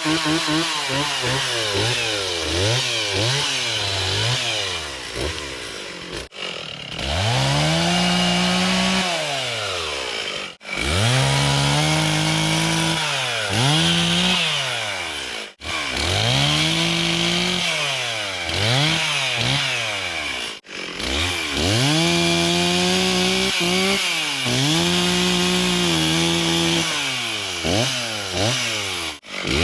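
Stihl two-stroke chainsaw cutting wood: the engine revs up to full throttle, sags in pitch as the chain bites into the cut, then climbs again, over and over. It breaks off abruptly for an instant several times.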